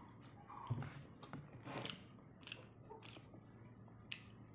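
Quiet close-up chewing of pork intestine and rice: a mouth eating with scattered wet clicks and smacks, a few sharper ones about a second in and near the end.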